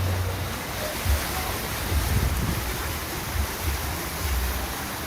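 Floodwater rushing in a steady hiss, with wind buffeting the microphone in repeated low rumbles.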